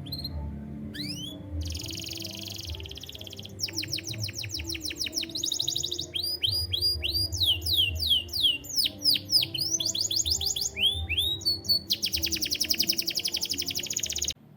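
Canary singing a long song of fast trills and quick rising and falling whistles, the phrases changing every second or two, over a steady low hum; the song cuts off suddenly near the end.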